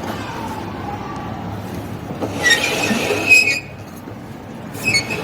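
Samsung front-load washing machine's faulty motor running: a steady low hum, with two louder surges of high-pitched whine, about two and a half seconds in and again near the end. This is the motor noise fault, which the technician puts down to a damaged motor magnet.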